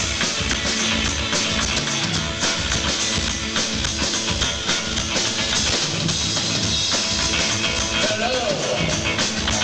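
Live rock band playing with drum kit and electric guitar, a steady beat running under dense guitar sound; no vocals yet.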